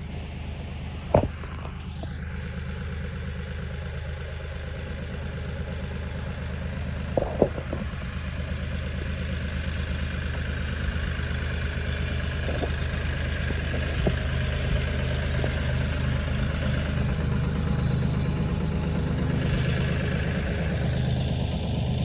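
Kioti 4010 tractor engine running steadily, slowly growing louder, with a sharp knock about a second in and two more close together around seven seconds in.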